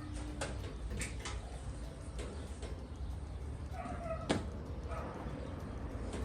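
Scattered clicks, knocks and a few short squeaks of hand work on the truck's parts, the sharpest knock about four seconds in, over a steady low hum.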